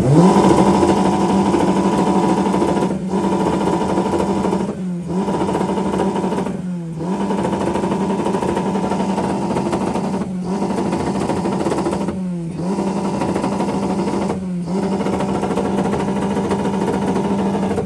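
Car engine revved hard and held at a steady high rpm, dropping briefly and climbing straight back about every two seconds: a rev-battle run.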